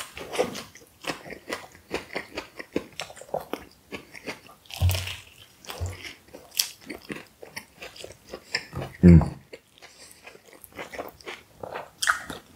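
Close-miked biting and chewing of a lamb kebab wrap: a steady run of wet mouth clicks and smacks, with a few louder low sounds, the loudest about nine seconds in.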